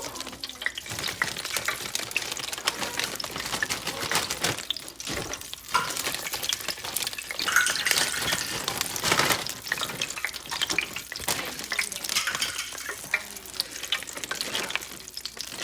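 Hot oil sizzling and crackling with many small pops as a batch of stick fries cooks in an electric deep fryer.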